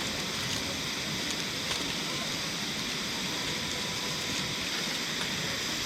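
Steady rushing of a clear river, an even hiss that doesn't change.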